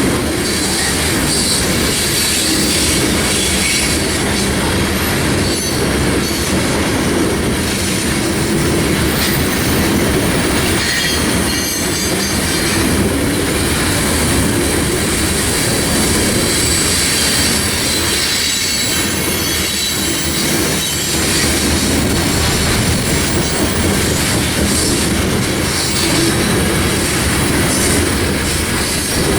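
Train cars rolling past, their steel wheels clattering over the rail joints and squealing on the rails.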